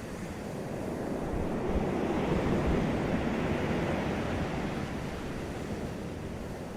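Sea waves breaking on a beach: the surf swells to a peak about two to three seconds in and then eases off as the wave washes out.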